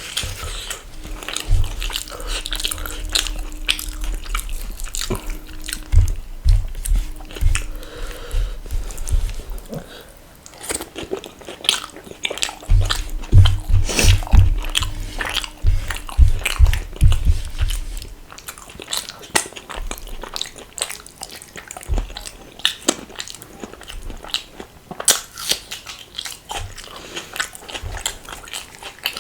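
Close-miked eating: a person biting and chewing food, with wet mouth clicks and crisp crunches, and bursts of low thuds in the middle.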